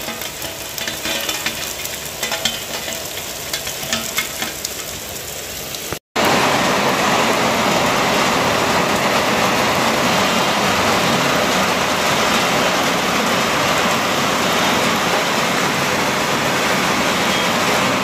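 Heavy rain falling in a steady hiss. Over the first few seconds close drips add sharp ticks; after a brief dropout about six seconds in, the downpour is louder and even.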